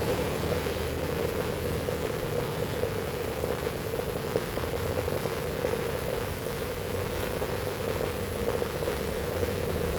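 Heavy rain falling steadily: a dense, even hiss of many drops that holds without change.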